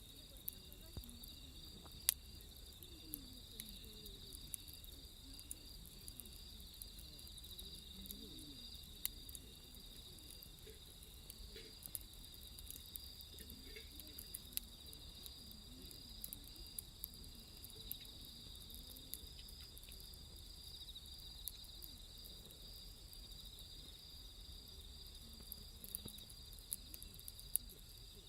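Steady chirring of night insects in two high tones, with a small wood fire crackling in irregular sharp pops.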